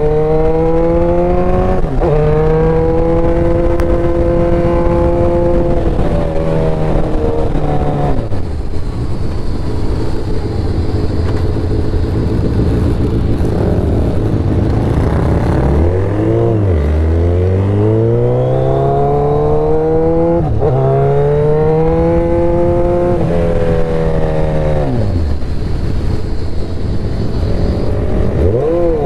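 Motorcycle engine pulling through the gears: its pitch climbs, drops at each upshift, winds down twice as the throttle closes, then climbs again under acceleration.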